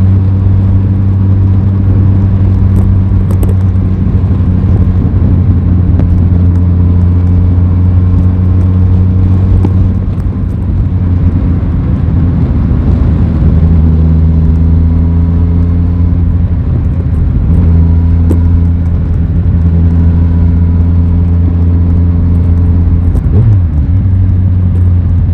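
Aprilia Tuono 660's parallel-twin engine running steadily under way at a near-constant pitch. It eases off briefly about ten seconds in, then holds steady again, with a short change in pitch near the end.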